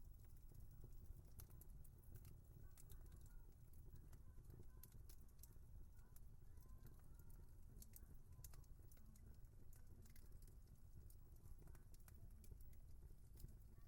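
Wood fire crackling faintly: irregular sharp snaps and pops over a low steady rumble.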